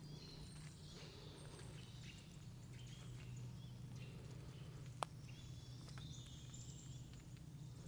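Faint forest ambience: several birds calling in short high chirps and trills over a steady low rumble, with one sharp click about five seconds in.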